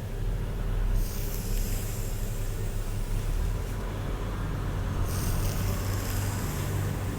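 Comb or brush drawn through hair close to the microphone: two long, hissy strokes over a steady low rumble.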